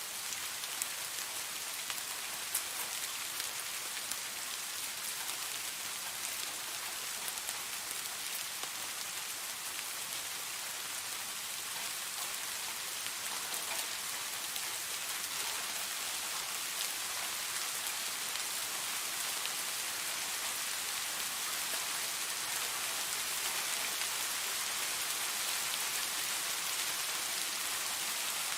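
Steady rain falling: a dense, even hiss of drops with scattered individual drop ticks, a few sharper ones in the first few seconds.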